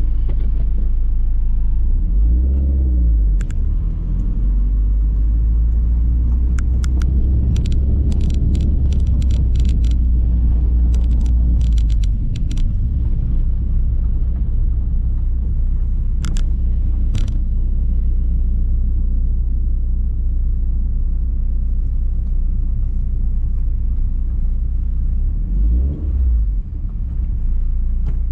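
Dodge Caliber SRT-4's turbocharged 2.4-litre four-cylinder, with a big turbo, catless downpipe and exhaust cutout, running under way with a steady deep rumble. The engine note swings up and down about two seconds in and again near the end, and there are scattered sharp clicks in the first half.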